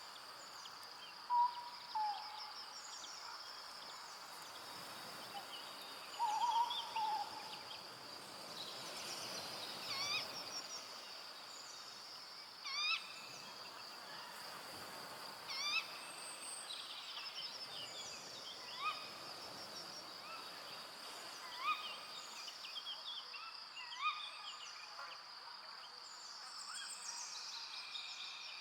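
Forest birds singing and calling: many short chirps and whistles, some of them louder, over a steady high-pitched insect drone.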